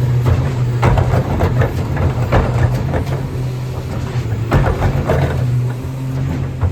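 Autocar ACX rear-loader garbage truck's engine running steadily, with repeated sharp clanks and rattles over it.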